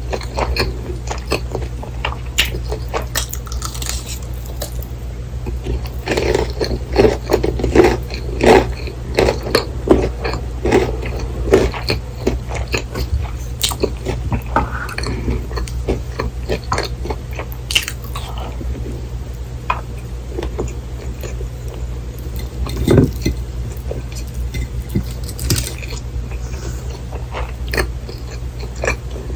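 Close-up eating sounds of a fried, breaded cheese pork cutlet: crunchy bites into the crisp coating and wet chewing, with a dense run of crunching a few seconds in.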